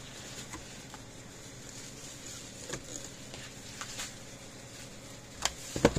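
Scattered light clicks and taps of parts being handled, with sharper knocks near the end, as a component is worked and pushed back into its seat in the fence charger's case.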